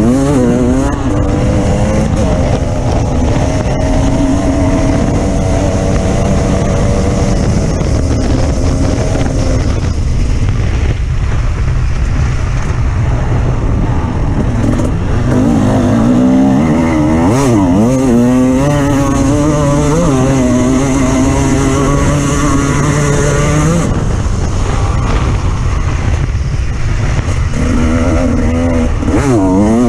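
Off-road vehicle engine running under load over rough rumbling noise. The engine pitch holds steady for a while, weakens, then swings up and down repeatedly through the middle as the revs change, and climbs again near the end.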